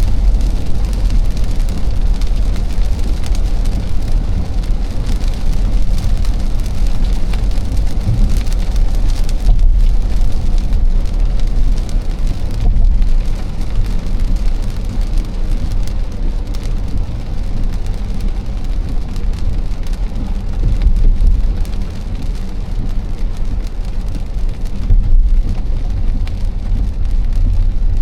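A car driving on an expressway in the rain: a steady low road rumble with rain on the car and tyres on wet pavement.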